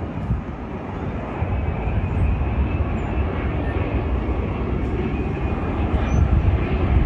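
Jet airliner engines heard from the ground, a steady loud rush with a strong low rumble.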